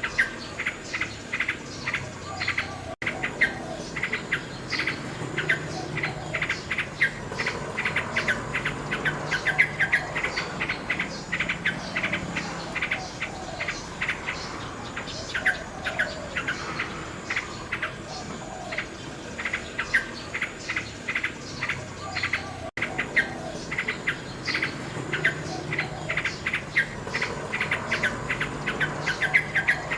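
Common nightingale singing in rapid runs of short repeated notes, over a dense chirping of insects. The sound cuts out for an instant twice, about three seconds in and again near the end.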